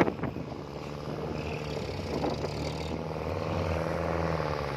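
Kubota L4708 tractor's diesel engine running steadily under load, growing a little louder about three seconds in.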